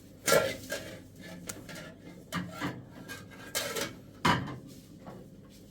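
A handful of sharp knocks and clatters with scraping between them, like objects being handled and set down. The loudest comes just after the start, and another strong one about four seconds in.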